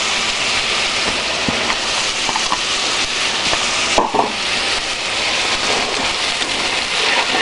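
Vegetables sizzling steadily as they fry in hot oil in a pot for a stir fry, with a light knock about four seconds in.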